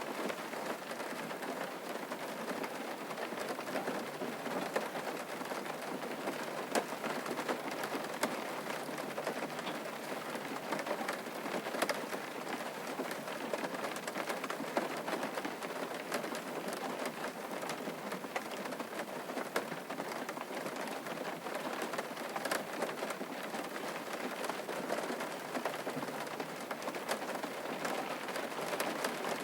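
Steady rain falling on a surface, a constant hiss scattered with many small drop ticks.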